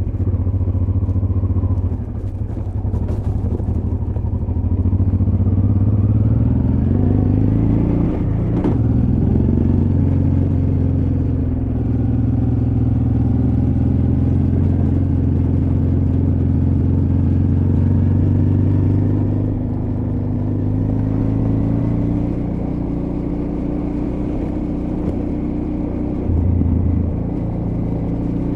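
Honda Transalp XL600V's V-twin engine pulling on a rocky off-road trail, its revs climbing over several seconds and then holding steady with small changes in pitch. A single sharp knock comes about a third of the way in.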